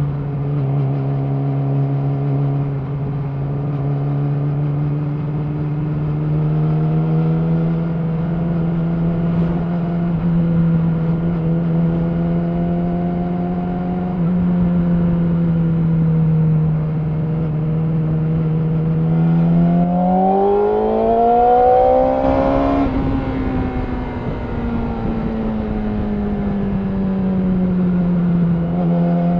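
Yamaha R6 inline-four engine through an Akrapovič slip-on exhaust, running at a steady cruising note. About twenty seconds in it rises in pitch as the bike accelerates, then eases slowly back down.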